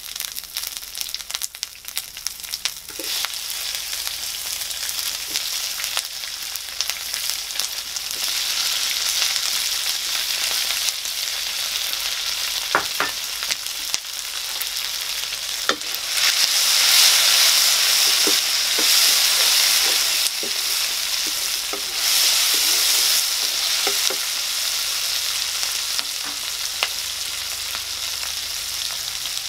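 Chopped onions, green chillies and garlic sizzling in hot oil in a wok, with scattered knocks from stirring. The sizzle grows louder partway through as tomatoes and curry leaves join the pan, and is loudest for several seconds around the middle.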